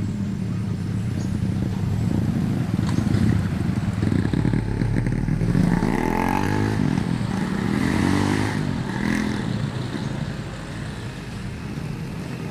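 A motor vehicle engine running; about four seconds in, its pitch rises and falls several times as it revs, then it settles and eases off near the end.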